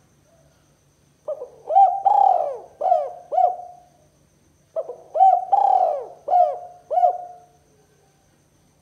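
Spotted dove (tekukur) cooing, in the two-'kuk' song type used as a lure call: two phrases about a second apart. Each phrase has a short note, a longer drawn coo, then two short coos.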